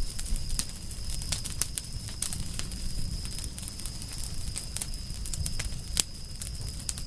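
Campfire of burning firewood crackling and popping, with irregular sharp pops, one louder near the end, over a low rumble of flames.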